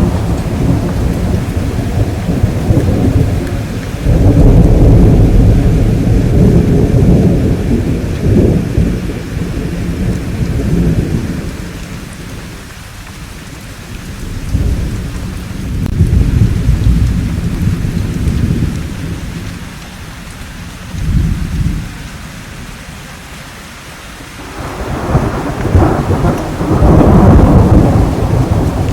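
Thunderstorm: steady rain with rolling thunder coming in repeated rumbles. A loud rumble breaks about four seconds in and rolls for several seconds, others follow midway and briefly later, and another builds near the end.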